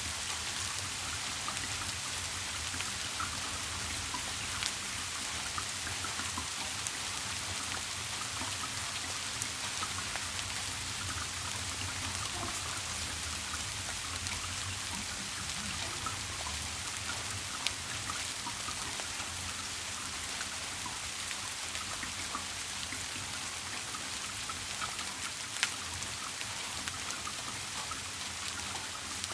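Steady rain falling, an even hiss with scattered drips and a few sharper single drop ticks, over a low steady hum.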